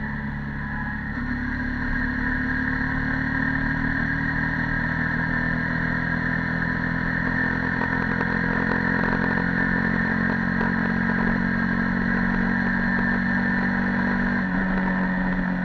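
Yamaha YZF-R15 V2.0's single-cylinder engine, stock exhaust, running under way at a steady pace. The engine note rises slightly about a second in, holds steady, and drops near the end.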